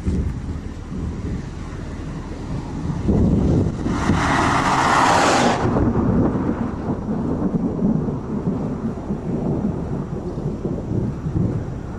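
Low rumbling storm noise of wind and thunder. About four seconds in, a louder, hissing rush starts and cuts off sharply after about a second and a half.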